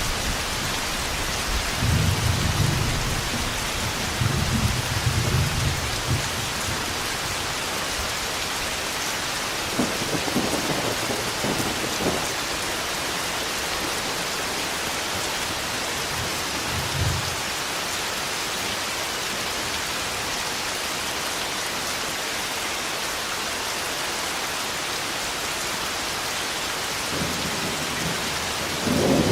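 Thunderstorm: steady heavy rain, with low rumbles of thunder rolling in several times, the strongest a few seconds in and another building near the end.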